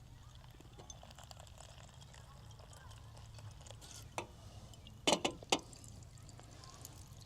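A few sharp knocks: one about four seconds in, then three close together about a second later, over a faint steady low hum and light crackling.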